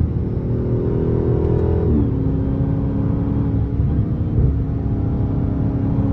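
Dodge Charger Hellcat's supercharged 6.2-litre V8 running through a mid-muffler-deleted exhaust, a steady loud drone that drops in pitch about two seconds in and then settles at a lower, even note.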